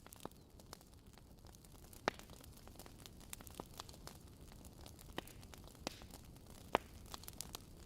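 Wood fire crackling: scattered sharp pops and snaps over a steady low hiss, with the loudest pops about two seconds in and near the end.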